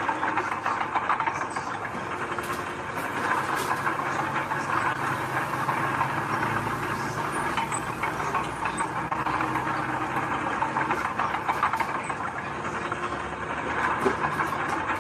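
Diesel engine of heavy earthmoving machinery running steadily, with many short metallic clicks and rattles over it.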